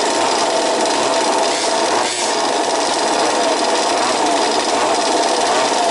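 Several 1/5-scale RC buggies' small two-stroke petrol engines buzzing together, their pitch rising and falling as they rev and ease off around the track.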